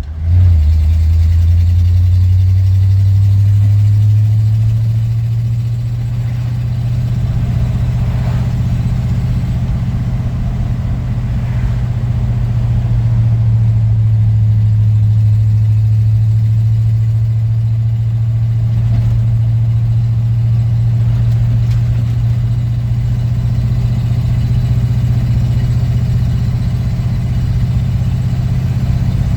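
1952 Ford F-2 pickup's original engine pulling steadily in third gear while the truck drives, heard from inside the cab as a loud, even low drone. Its pitch steps up about four seconds in, then holds.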